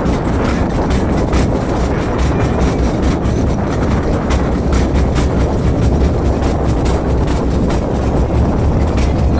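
Small sightseeing train running along its track, heard from on board: a steady low rumble with frequent clicks and rattles.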